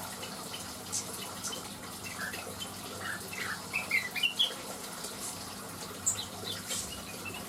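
Cucak wilis (greater green leafbird) giving scattered short chirps, with a quick, louder run of notes around the middle. A steady watery hiss runs underneath.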